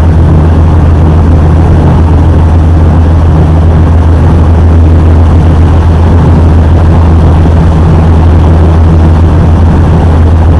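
River tour boat's engine running steadily, a loud low drone heard from on board.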